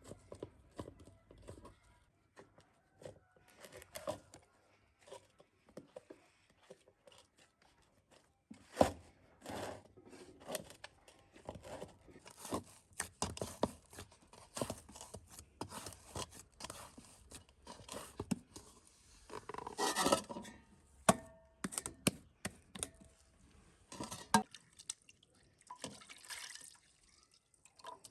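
Irregular knocks, clicks and scrapes of cooking utensils and food being handled during preparation, with a sharp knock about nine seconds in and a busier stretch around twenty seconds in.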